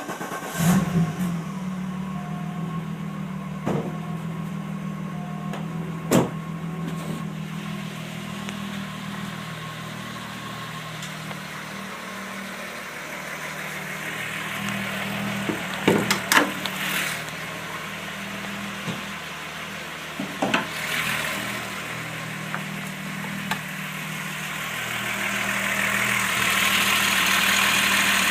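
Volkswagen VR6 narrow-angle V6 engine idling steadily just after a start, with a few sharp clicks or knocks at irregular moments, a cluster of them about 16 seconds in. A hissing noise grows louder near the end. The owner is asking about an odd sound from this engine, which has a new clutch and throw-out bearing.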